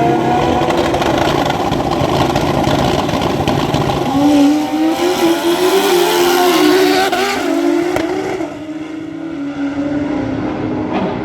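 Drag racing motorcycle engine at full throttle launching and accelerating down the strip. The pitch climbs in steps through the middle, then the sound falls away as the bike pulls off.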